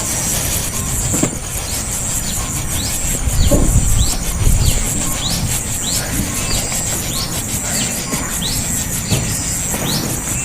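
A young bird calling in short, high chirps, about one to one and a half a second: a nestling begging for food. A steady high buzz runs behind the chirps, and a brief low rumble comes a few seconds in.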